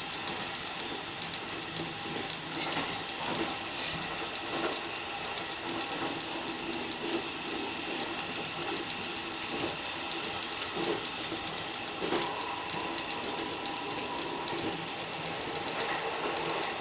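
Electric commuter train running on the rails, heard from inside the train: a steady rolling noise with a faint steady whine and a few scattered clicks from the wheels.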